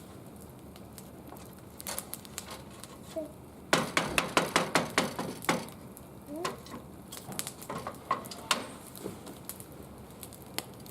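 A quick run of sharp knocks, about a dozen in two seconds, a few seconds in, amid scattered crackling clicks from the wood fire burning in the barbecue grill.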